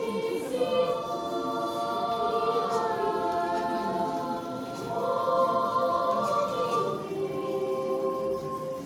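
Children's and youth church choir singing together in long held notes, phrase after phrase.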